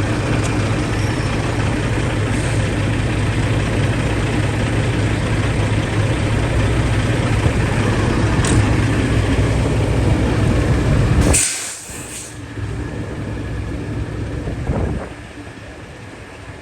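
Semi truck's diesel engine idling with a steady low rumble; about eleven seconds in comes a short sharp hiss of air, after which the rumble falls away and it goes much quieter.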